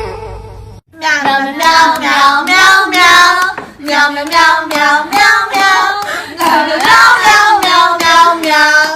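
A short wailing animal cry breaks off within the first second. Then a high voice sings a quick melody in short syllables.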